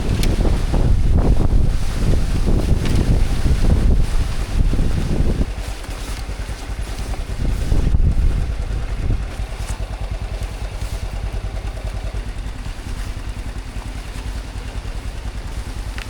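Strong storm wind gusting and buffeting the microphone, heavy for about the first five seconds, then easing to a steadier, lower rush.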